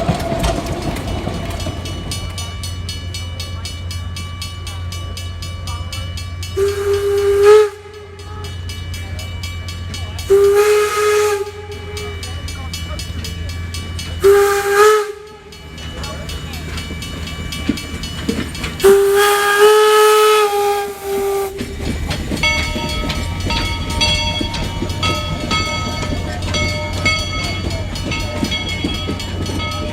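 Steam locomotive whistle of Georgetown Loop 2-6-2 No. 12, blown four times: three blasts of about a second each and a final long blast of nearly three seconds. The train rumbles along steadily underneath, and a set of steady high ringing tones follows the last blast.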